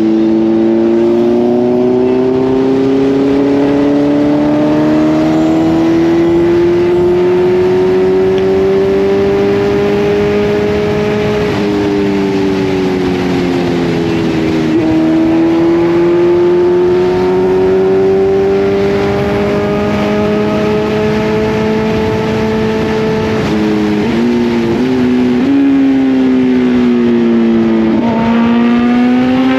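Kawasaki Z900's inline-four engine under way, its pitch climbing slowly through a gear, dropping at a shift about 11 seconds in, then climbing again. Near the end the revs rise and fall quickly several times, sink, then rise sharply. Wind noise runs underneath.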